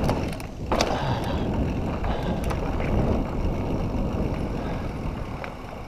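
Mountain bike riding along a dirt trail: a steady rush of wind on the microphone and tyre noise, with a few sharp clicks and rattles from the bike.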